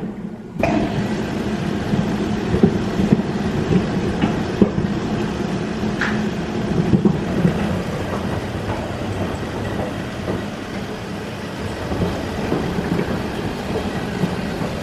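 Front-load washing machine running with sneakers inside, the shoes tumbling and knocking against the drum in a steady rattling clatter that starts suddenly about half a second in.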